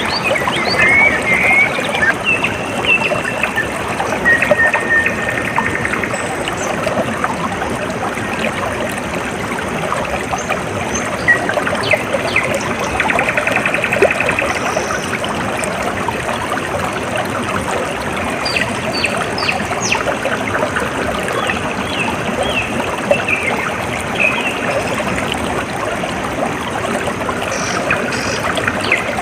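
Water trickling steadily, as from a small stream, with birds chirping and giving short trills at intervals over it.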